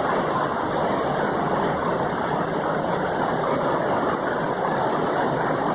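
River water rushing over rocks, a steady, even noise.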